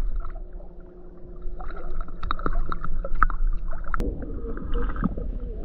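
Lake water splashing and sloshing close to the microphone around a swimmer, with short splashes clustered in the middle and a faint steady hum underneath.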